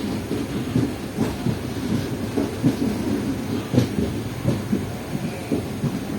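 Passenger train running on the track: a steady low rumble with irregular knocks and rattles.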